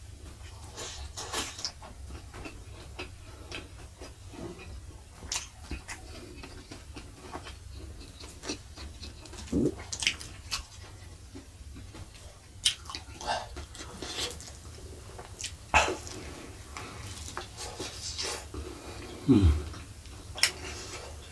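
Close-miked eating sounds: wet chewing and lip smacks with scattered sharp clicks as fried spleen, a somewhat tough and chewy meat, is eaten by hand. Twice, about ten seconds in and again near the end, a short low throat sound drops in pitch.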